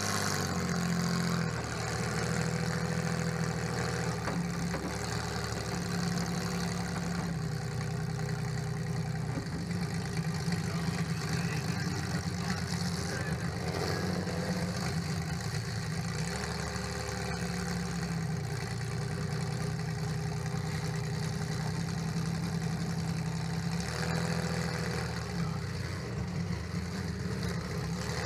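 Chevrolet Lumina demolition derby car's engine running, heard from inside its stripped cab; its pitch drops and rises several times as the engine is revved and eased back to idle.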